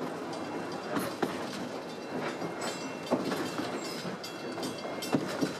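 Narrow-gauge passenger train rolling along the track: a steady rumble of wheels on rails, broken by a few sharp clacks.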